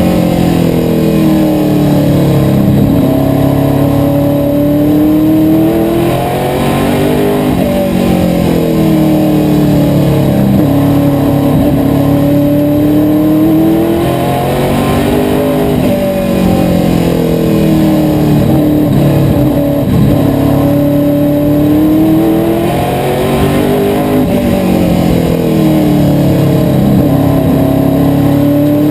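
Asphalt modified race car's V8 engine running hard at racing speed. Its pitch climbs for several seconds, then drops briefly as the throttle comes off for a turn, over and over about every eight seconds as the car circles the oval.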